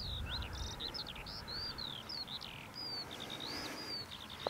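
A songbird singing a quick, continuous run of varied chirps and short whistles, some rising and some falling, in open countryside. A low wind rumble on the microphone fades out about a second in.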